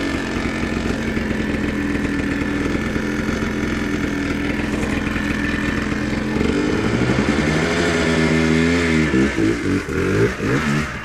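ATV engine running steadily at a low pitch, then revving up about six seconds in, with the throttle opened and closed several times near the end.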